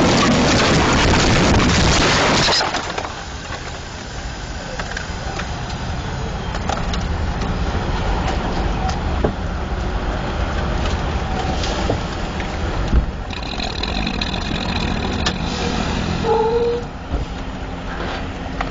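Loud road and wind noise from a moving vehicle that drops off abruptly about two and a half seconds in, leaving a low engine rumble with scattered clicks and knocks.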